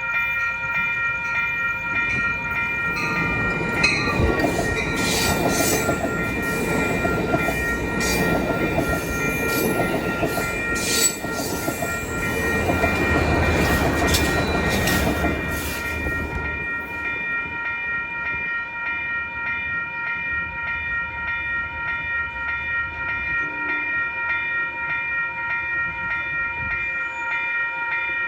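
A train passing close by, with rail clatter and wheel knocks, building from about two seconds in and dying away about sixteen seconds in. Under it runs a steady ringing of several high tones that goes on after the train has gone.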